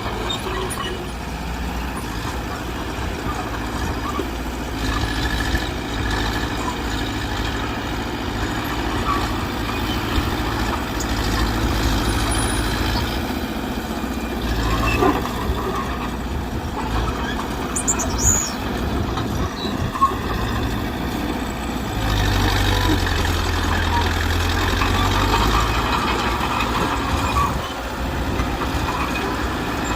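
Mitsubishi BD2G bulldozer's diesel engine running as it works, with its pitch and load shifting. It gets louder for a few seconds about two-thirds of the way through, and there are a few short knocks near the middle.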